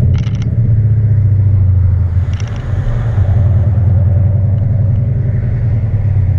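Loud, steady low exhaust drone of a Subaru flat-four being driven, its muffler blown apart so that it runs essentially straight-piped. A few brief rattles or clicks come near the start and again about two and a half seconds in.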